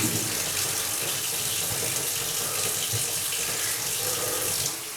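Water running steadily from a kitchen tap, easing off shortly before the end.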